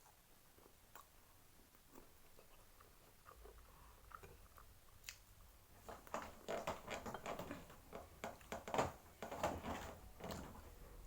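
A person chewing and biting food close to the microphone: faint mouth clicks at first, then louder, denser wet, crunchy chewing from about halfway through.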